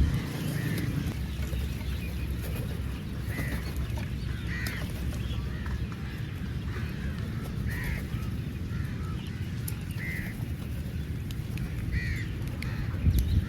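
Crows cawing, short calls repeated roughly once a second, over a steady low background rumble.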